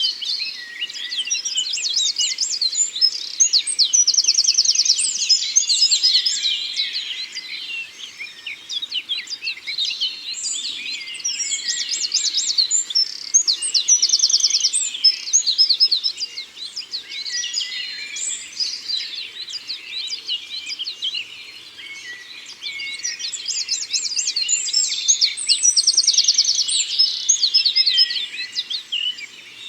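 Several songbirds singing at once in woodland: overlapping chirps, whistles and fast trills, rising to busier bouts about 3, 12 and 25 seconds in.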